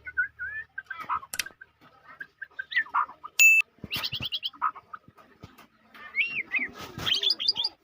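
White-rumped shama (murai batu, Medan type) singing a varied song of short whistled notes, quick rising and falling glides, trills and sharp clicks.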